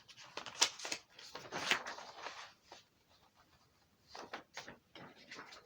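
Faint rustling and light clicks and knocks, scattered and irregular, with a near-silent gap in the middle: handling noise in a small room.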